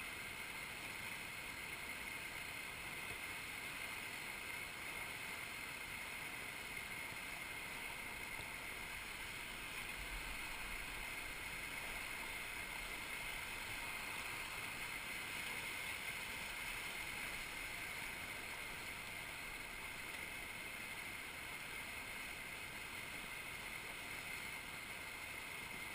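River rapids rushing: a steady, even wash of moving water with no change through the stretch.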